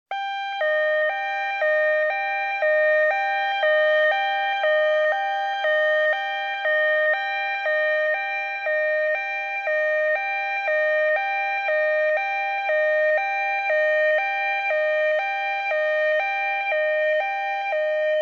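Two-tone emergency siren going hi-lo, alternating steadily between a higher and a lower tone, each held about half a second.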